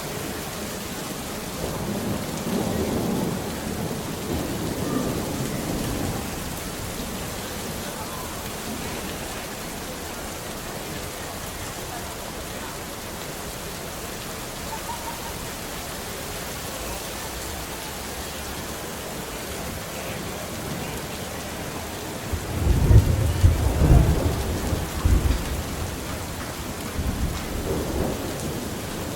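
Steady rain falling, with rolls of thunder: a low rumble early on and a louder, heavier thunder rumble about three-quarters of the way through, followed by a smaller one near the end.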